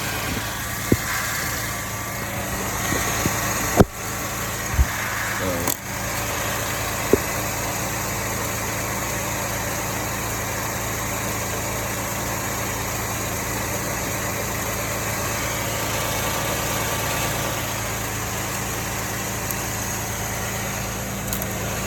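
Car engine idling steadily under the hood, with a few sharp clicks and knocks in the first seven seconds or so from hands working at the alternator's connector.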